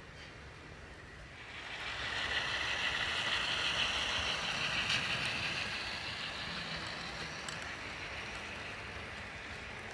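HO-scale model train running along the track, its wheels and motor growing louder about a second and a half in as it passes close, then slowly fading, with a couple of faint clicks.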